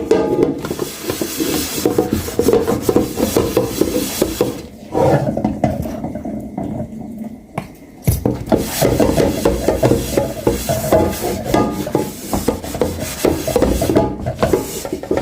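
Dishes being scrubbed by hand, with quick rasping, rubbing strokes and a knock about eight seconds in.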